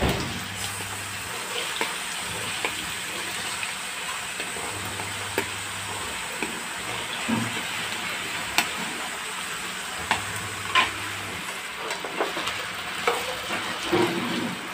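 Diced potatoes shallow-frying in hot oil in a pan: a steady sizzle, with a few sharp clicks and the scrape of a spoon stirring them near the end.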